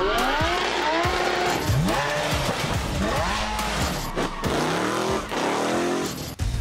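Lamborghini Huracán's V10 petrol engine revving hard, its pitch climbing and falling several times.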